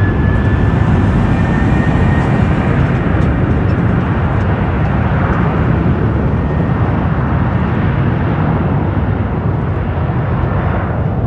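Boeing 737-800's CFM56-7B turbofan engines spooling up for takeoff: a loud, steady roar with a high whine that rises and levels off about two seconds in.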